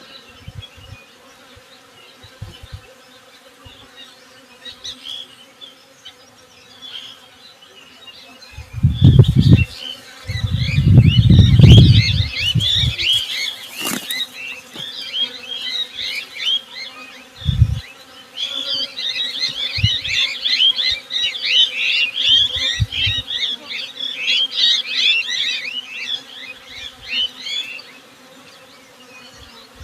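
Honey bees buzzing in a steady hum, with many small birds chirping, thickest in the second half. A few loud low rumbles about nine to twelve seconds in.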